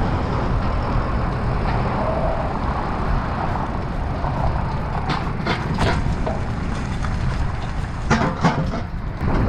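Steady low rumble of wind and riding noise on the microphone of a bicycle-mounted action camera, with a few sharp clicks or rattles about five to six seconds in and again near eight seconds.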